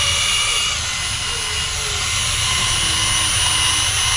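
Electric drill running continuously with a steady high whine, working a badge off a motorcycle fuel tank.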